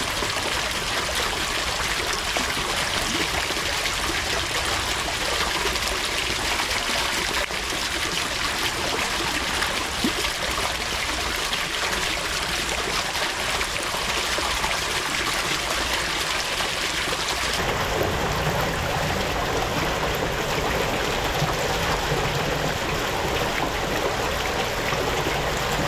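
Steady running water, an even rushing and trickling, which changes to a fuller, lower sound about two thirds of the way through.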